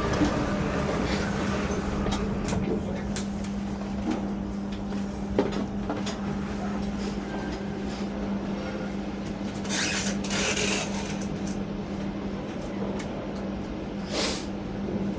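Electric train at a station platform: a steady hum with scattered clicks, and two short hisses of air, one about two-thirds of the way through and one near the end.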